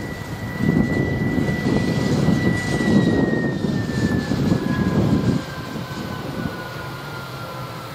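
Freight train passing behind an electric locomotive and a TEM2 diesel shunter: a heavy low rumble with a steady high whine that falls in pitch as the locomotives move past. About five seconds in the rumble drops to the quieter rolling of the gondola wagons.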